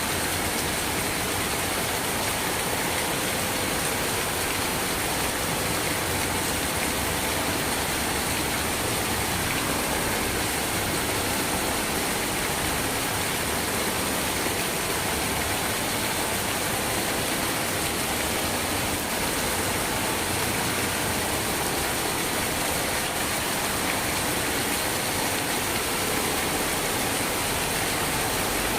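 Rain falling steadily: an even hiss that does not change.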